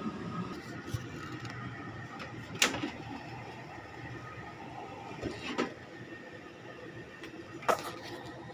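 A steady mechanical hum with a few held tones, broken by sharp clacks and knocks. The loudest knocks come about two and a half seconds in, as a pair near five and a half seconds, and near the end.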